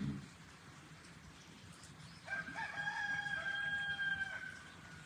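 A rooster crowing once, one long call of about two seconds starting a little over two seconds in. A short low thump comes right at the start.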